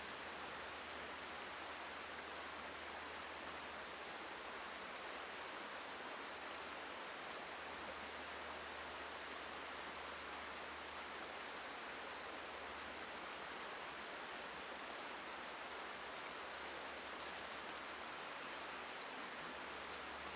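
Steady rush of a flowing river, even and unchanging, with a few faint high ticks about sixteen seconds in.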